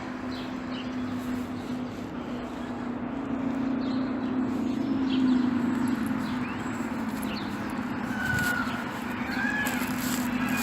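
Rain falling steadily, with birds giving short high chirps and a couple of sliding calls near the end, over a steady low drone that swells about halfway through.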